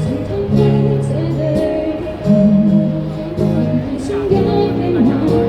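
Live band playing a Cantopop song, with a singer's voice over guitar and bass chords.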